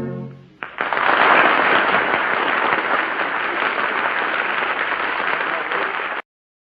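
Studio audience applauding in an old 1939 radio broadcast recording, starting about half a second in as the last musical chord dies away, then cutting off abruptly near the end.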